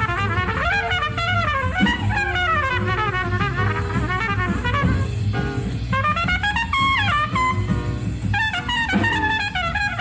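Bebop jazz recording: a fast solo horn line running up and down in quick, rapid phrases over bass and drums.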